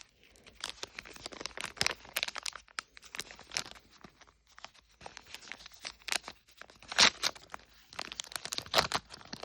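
A small plastic packaging bag being torn open and crinkled by hand: irregular crackling and ripping, with the sharpest tears about seven seconds in and again near the end.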